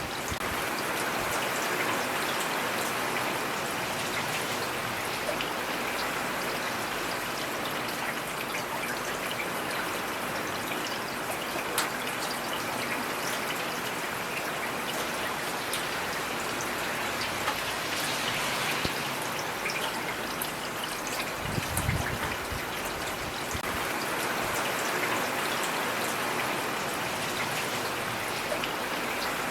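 Heavy rain falling steadily: a dense, even hiss with scattered drop ticks. A brief low rumble comes about three-quarters of the way in.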